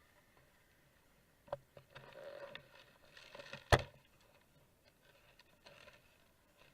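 Mostly quiet, with a few faint knocks and scraping noises and one sharp click partway through.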